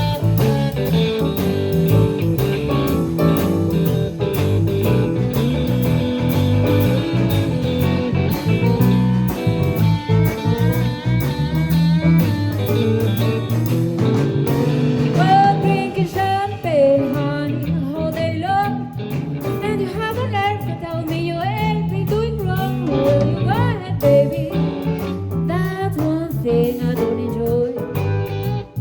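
Live blues band playing an instrumental break: electric guitar, piano, bass and drums. About halfway through, a lead line of bent, sliding notes comes to the front over the rhythm section.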